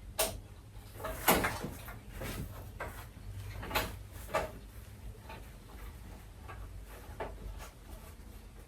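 Scattered clicks and knocks of hard plastic prop parts being handled and fitted together, about seven in all, the loudest a little over a second in.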